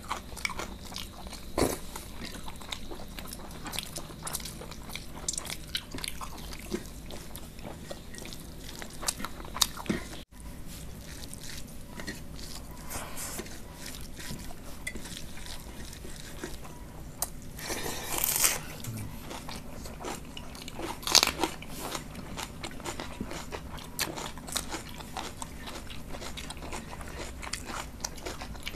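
Close-miked eating sounds of chicken curry and rice eaten by hand: chewing and biting with crunching, and many short clicks and wet smacks.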